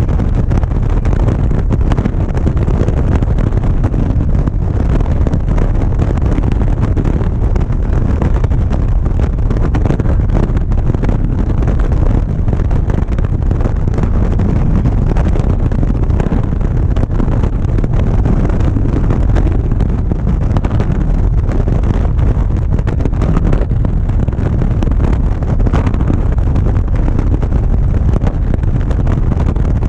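Steady wind buffeting on the microphone of a camera riding on a moving motorcycle, with engine and road noise beneath it and no change in pace.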